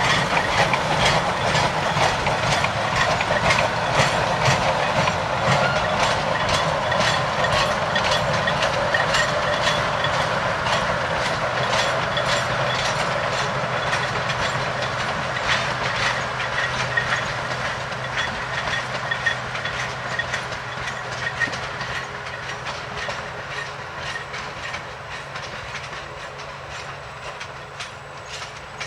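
Narrow-gauge train rolling along the track, its wheels clicking rapidly over the rails over a noisy running rumble, with a steady low hum through the middle. The sound grows gradually quieter over the second half.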